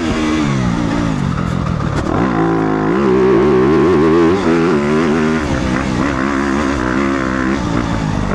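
Motocross bike engine revving hard and easing off again and again as it rides the track, its pitch climbing and dropping with the throttle and gear changes. It is heard from inside the rider's helmet chin guard.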